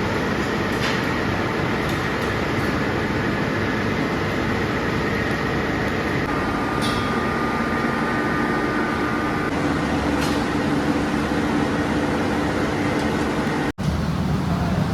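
Steady din of industrial machinery on a steel chain factory floor, with a few faint humming tones in it. The sound breaks off for an instant near the end, then carries on slightly louder.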